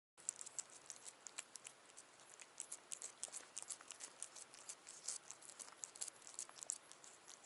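Faint, irregular small clicks and taps, several a second, over a quiet steady hiss.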